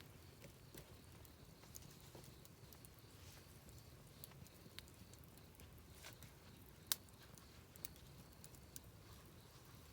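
Wood fire crackling faintly: scattered small pops and ticks, with one sharper pop about seven seconds in.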